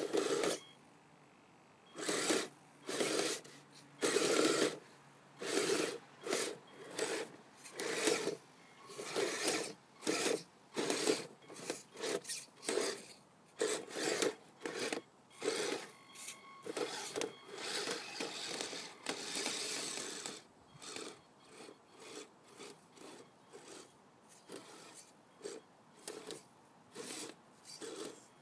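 Radio-controlled Kyosho Blizzard SR snowcat driven in short throttle bursts, its gear-driven electric drive whirring with a rasping scrape as the tracks and blade push through snow. The bursts come about once a second, louder at first and smaller in the last third.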